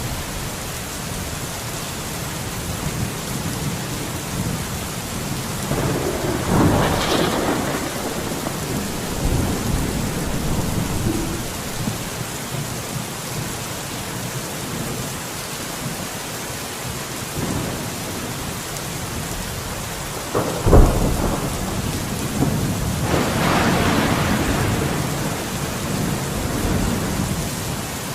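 Steady rain falling, with rolls of thunder: one about six seconds in, and another starting with a sharp crack about twenty seconds in and rumbling on for several seconds.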